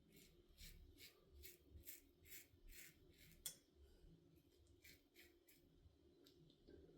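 Faint scratchy strokes of a Blackland Vector stainless safety razor cutting one day's stubble through lather, about two or three strokes a second. A single sharp click about halfway through, followed by a few more strokes.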